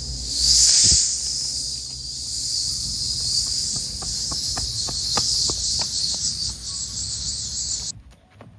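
Steady high insect chorus, shrill and continuous, over a low engine rumble, with a brief louder swell about a second in and scattered sharp clicks. It all cuts off abruptly near the end.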